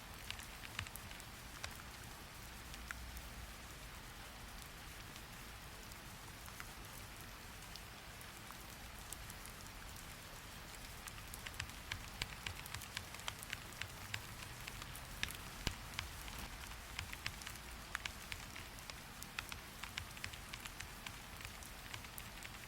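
Steady rain hissing, with irregular sharp clicking taps over it that grow more frequent about halfway through.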